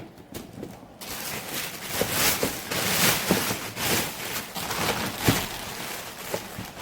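Plastic bag or packaging rustling and crinkling as it is handled, starting about a second in and going on in irregular crackly bursts.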